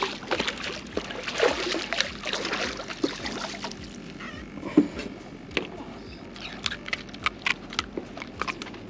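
Water lapping and sloshing, with irregular small splashes and sharp clicks scattered throughout; the loudest come about one and a half, two and nearly five seconds in.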